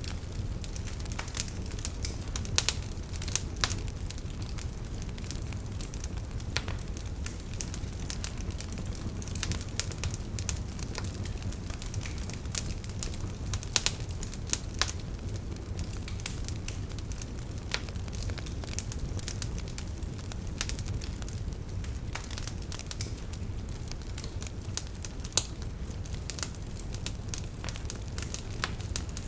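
Wood campfire burning: a steady low rumble of flame with frequent irregular sharp crackles and pops from the burning firewood.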